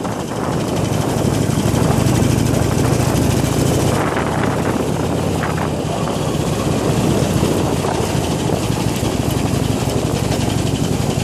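Harley-Davidson Iron 883's air-cooled V-twin engine running steadily as the motorcycle rides along.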